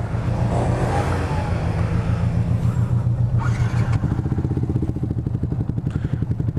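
Motorcycle engine idling with a steady low pulse. For the first few seconds a broader rushing noise from another passing vehicle or wind rises and falls over it.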